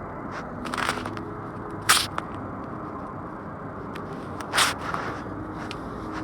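Steady background noise with three short, loud scraping noises, about one second in, two seconds in and near the middle.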